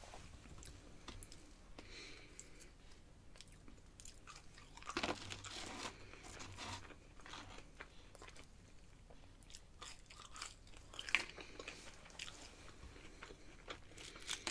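Quiet chewing and crunching of crispy fried food, mainly seasoned spicy fries, with a louder run of crunches about five seconds in and another sharp crunch near eleven seconds.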